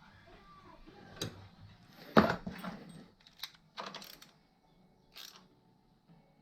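A few sharp clinks and knocks of objects being handled, the loudest about two seconds in, followed by several lighter clicks.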